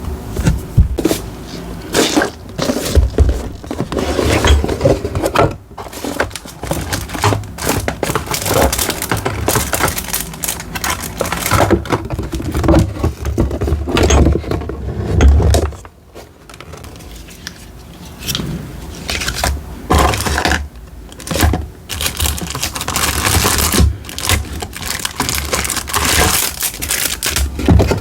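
Paper being handled for journal decorating: crinkling, tearing and scraping, with many quick taps and clicks.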